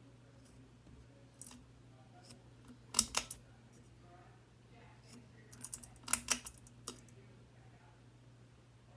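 Broken Harbor Breeze Armitage ceiling fan motor giving a steady low hum without running, which sounds like it wants to run. Two bursts of sharp clicks and rattles come about three seconds in and again around six to seven seconds in.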